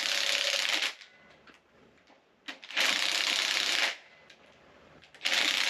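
Handheld power wrench spinning in three short rattling bursts, about a second each and a shorter one near the end, running fasteners loose on a small-block Chevy 350 engine.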